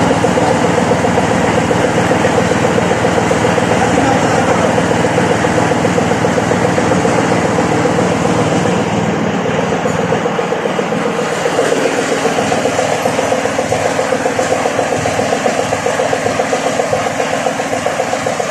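An engine running steadily with a fast, even pulse, easing slightly about eleven seconds in.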